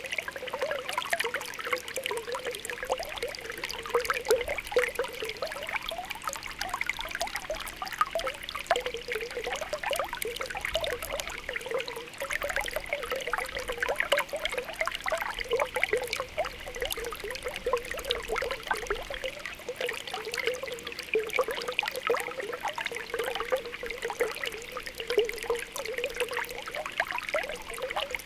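Spring water welling up from the ground, a steady stream of small popping, bubbling blips.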